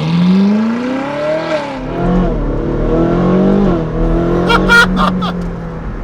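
Ferrari 458 Speciale's naturally aspirated 4.5-litre V8 through a Novitec sport exhaust in race mode, accelerating hard: the pitch climbs, drops at an upshift about a second and a half in, climbs again and drops at another shift near four seconds, then holds steady. A few sharp cracks come near the end.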